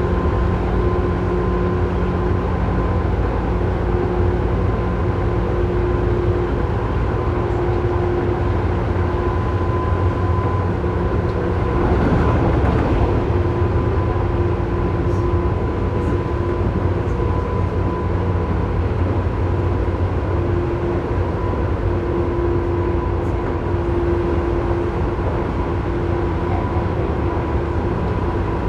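Tobu 9000 series electric train running at speed, heard from inside motor car Moha 9204 directly above its armature chopper: a steady rumble of wheels and motors with several steady whining tones on top. This car's chopper makes an abnormal noise that is high-pitched on this stretch. A brief swell of louder rumble comes about 12 seconds in.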